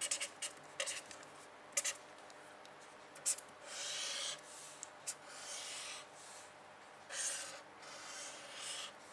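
A pen writing and drawing on a surface: a few quick taps, then a series of longer scratchy strokes.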